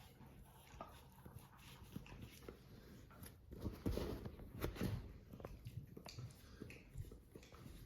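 Dogs moving about and scuffling, making scattered knocks and rustles, busiest and loudest around four to five seconds in.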